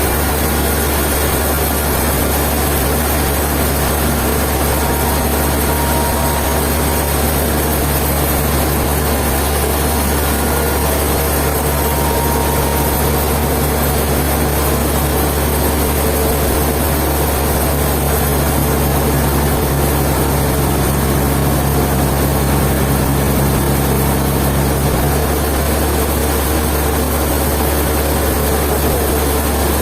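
Sawmill machinery running steadily with a constant low motor hum. An extra engine tone joins about halfway through and stops a few seconds later.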